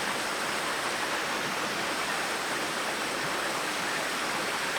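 Steady rush of a mountain stream flowing.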